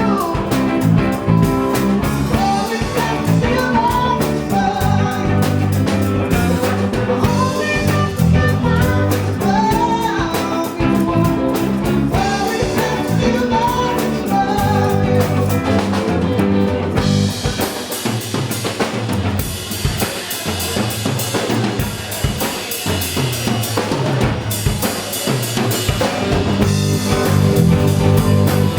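A band playing a blues-rock song, with drum kit, bass and guitar and a bending melody line over the top in the first half. The bass drops out from a little past halfway, and the full band comes back near the end.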